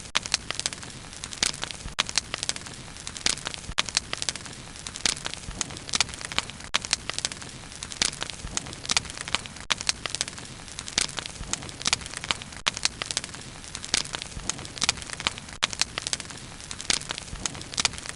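Wood bonfire burning, with frequent sharp, irregular crackles and pops over a steady low rush of flame.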